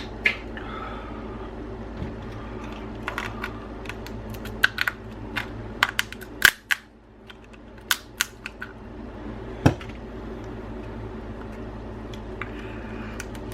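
Crab shell being cracked and picked apart by hand: a scatter of sharp, irregular clicks and snaps, a few louder cracks among them, over a steady background hum.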